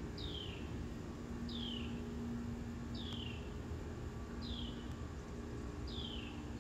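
A bird's short down-slurred chirp, repeated five times at even intervals of about a second and a half, over a faint steady hum.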